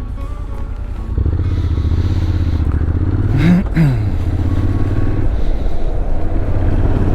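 Motorcycle engine running under way. The throttle opens about a second in. Around halfway the revs rise sharply, break off and fall back, then the engine settles to a steady note.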